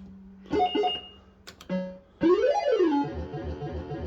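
Bell-Fruit Wild Cats fruit machine's electronic sound effects: a few short bleeps and a couple of clicks, then about two seconds in a synthesized tune of notes sweeping up and down over a pulsing beat.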